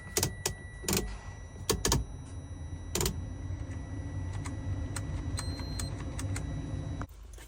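A few sharp clicks and knocks, then a steady low hum with scattered light ticks that cuts off about seven seconds in.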